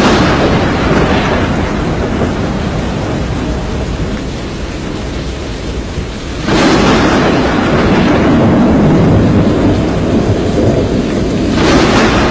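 Thunderstorm: a steady wash of rain and wind, broken by a loud thunderclap about six and a half seconds in and another near the end, each fading over several seconds.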